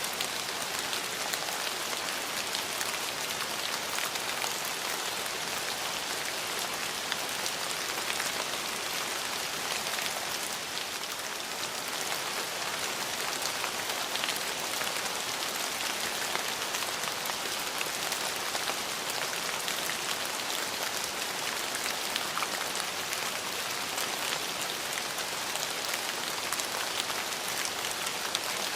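Steady rain falling on hard surfaces, a dense even hiss with many close individual drop patters.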